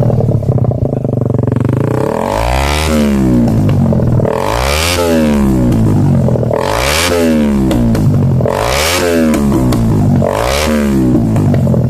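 Suzuki Satria FU's single-cylinder four-stroke engine breathing through its stock muffler, revved about five times, each rev rising and falling back over a second or so, roughly every two seconds.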